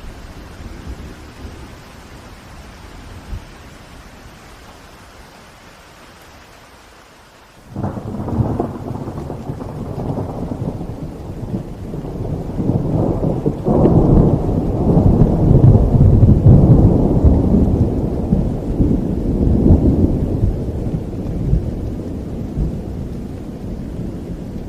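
Steady rain, then about a third of the way in a sudden thunderclap breaks into a long, deep rumble of thunder that builds, peaks past the middle and slowly eases off over the rain.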